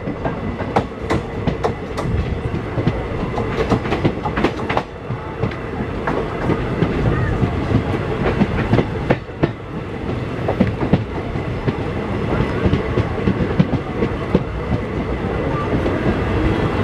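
Express train running on the rails, a steady rumble with wheels clacking over rail joints in quick runs of clicks, thickest in the first few seconds and again about halfway through.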